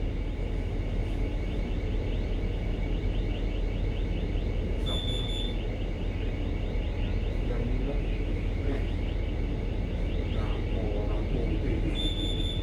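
Steady low hum of a ship's engines and machinery, with a short, high-pitched electronic beep twice, about seven seconds apart.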